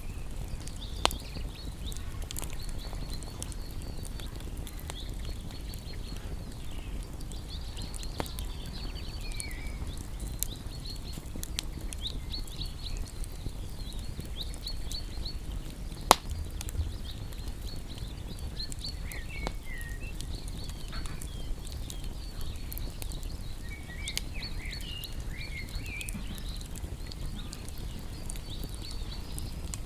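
Wood fire crackling, with scattered sharp pops, the loudest about 16 seconds in. Over it, small birds chirp in rapid high notes and short trills.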